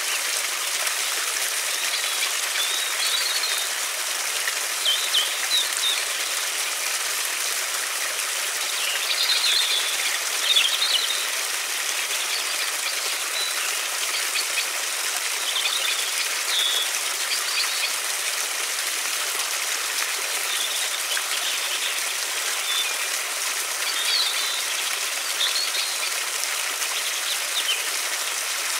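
Steady rushing of a river, with small birds chirping now and then over it.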